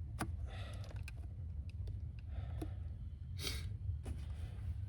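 Light clicks and handling of plastic parts as the mass airflow sensor connector on a 2009 Lexus IS250's intake is fitted, over a steady low hum. There is a short hiss about three and a half seconds in.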